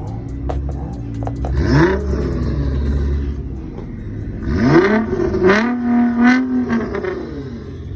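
Sports car engine revving hard twice, its pitch climbing steeply each time and then holding, with sharp exhaust pops around the second pull, before the revs drop away near the end.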